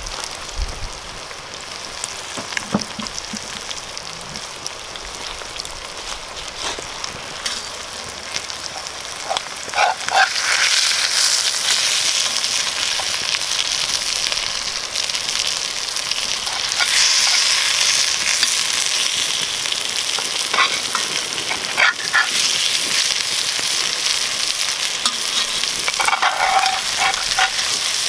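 Catfish fillets sizzling in butter and canola oil in a cast-iron pot over campfire coals. The sizzle grows louder about ten seconds in as the fillets are turned, with a few scrapes and taps of a metal spatula in the pan.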